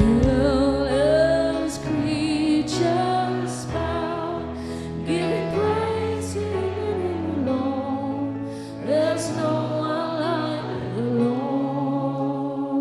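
Live gospel worship music: a woman singing long, gliding, wavering phrases over steady held keyboard chords.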